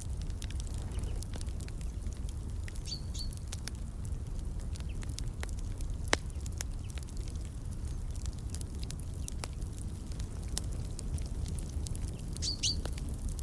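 Fireplace fire crackling with frequent small pops and one louder pop about six seconds in, over a low steady rumble. A bird chirps briefly twice, about three seconds in and near the end.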